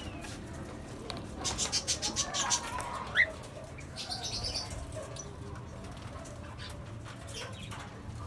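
Small pet parrots (cockatiels, budgies, lovebirds) chirping and chattering. There is a quick run of rapid chirps, then one sharp rising call about three seconds in, the loudest sound, and another brief flurry just after.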